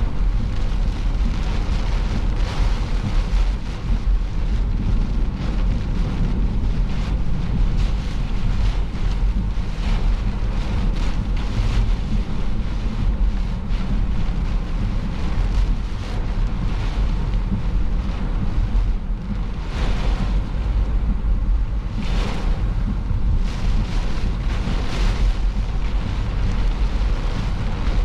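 A car driving, with a steady low road and engine rumble and wind rushing over it, surging briefly a few times near the end.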